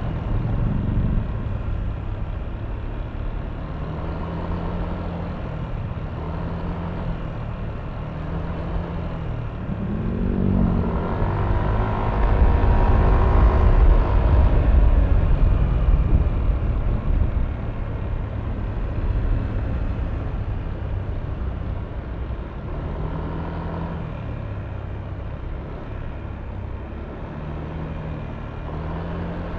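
Yamaha Aerox V3 scooter's 155 cc single-cylinder engine running while riding in traffic. About ten seconds in the pitch rises briefly, and from about 11 to 16 seconds a louder low rumble builds before it settles back to a steady drone.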